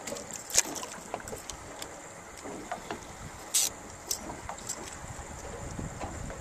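Small fishing boat on the water with wind, and a few sharp clicks and a brief high hiss about three and a half seconds in as a planer board is clipped onto the fishing line and set out.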